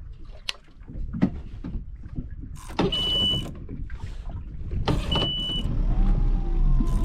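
Fishing reel working a snagged line: two short whirring bursts of about half a second each, each with a steady high whine. A low rumble builds near the end.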